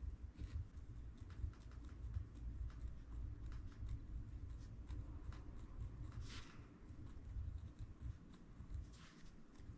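Pen writing on a book page: a run of small scratching strokes and taps, with a longer paper swish about six seconds in and another near the end.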